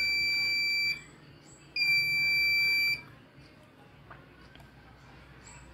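An electronic beeper sounding two long, steady, high-pitched beeps. The first ends about a second in, and the second starts soon after and lasts just over a second.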